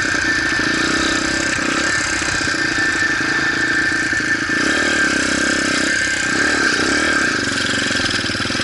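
Motorcycle engine running steadily, its pitch wavering up and down a few times in the second half as the throttle varies.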